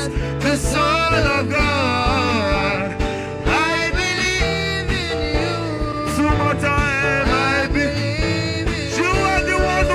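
Gospel worship music: a solo voice sings long, bending melodic runs without clear words over sustained chords and bass.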